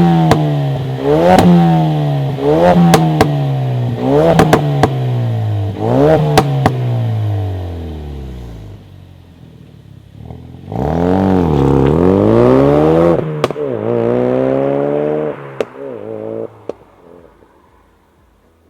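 Mk3 Ford Focus RS's 2.3-litre four-cylinder turbo engine through a non-resonated Cobra Sport cat-back exhaust, revved in quick blips about every second and a half with sharp pops and crackles as the revs fall. It settles back, then gives one longer rev about eleven seconds in, with more crackles on the way down, before dying away near the end.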